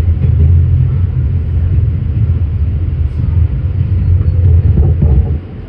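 Train running with a steady low rumble, the level dipping briefly near the end.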